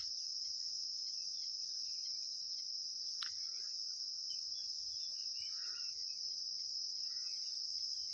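Crickets trilling, one steady high-pitched chirr without pause. A single faint click about three seconds in.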